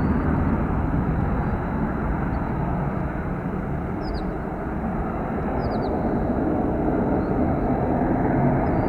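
Boeing 727-200 trijet's three JT8D low-bypass turbofans on departure: a loud, steady, deep jet rumble that eases slightly midway and builds again near the end.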